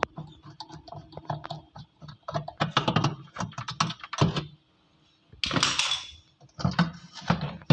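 Quick, irregular clicks and knocks of a tool working at the plastic water-pump housing of an air cooler, with a short hissing scrape about halfway through.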